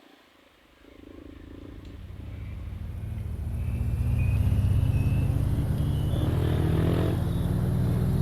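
Trail motorcycle engine approaching, its low hum growing steadily louder over the first few seconds, then running loud and steady close by.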